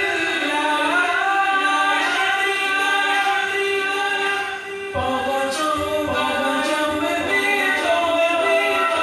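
An Urdu devotional naat sung a cappella, with several voices layered and echoing in a choir-like blend. The melody pauses briefly about halfway through, then continues.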